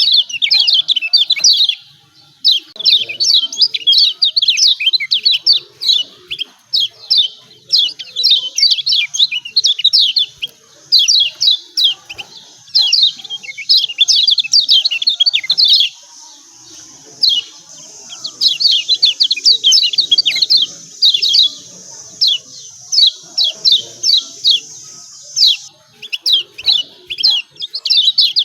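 Kecial kuning, a yellow white-eye, calling in fast runs of sharp, high, down-slurred 'ciak ciak' chirps, phrase after phrase with short breaks. A faint steady high hiss sits behind the calls for several seconds past the middle.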